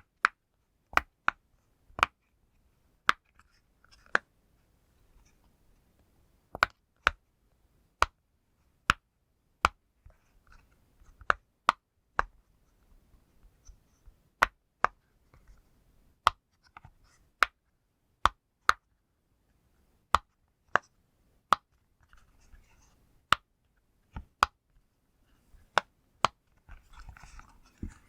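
Pop-it bubble fidget toy being pressed, giving sharp single pops about once a second, some in quick pairs, with soft handling rustle between them. A denser rustle comes near the end.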